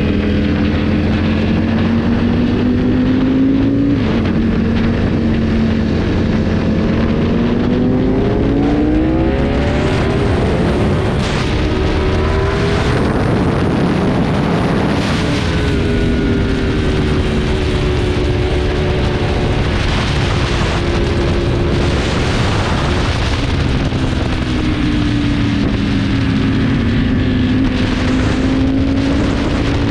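Motorcycle engine under way, its pitch climbing and dropping several times as it revs up and shifts, with wind rushing over the microphone. The engine is loudest and harshest in the middle stretch, around a third to halfway through.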